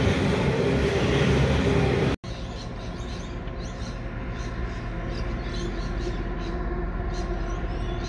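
Loaded coal hopper wagons rolling past on the rails, a dense steady rumble. About two seconds in it cuts to a quieter, steady diesel locomotive engine hum from a train approaching in the distance.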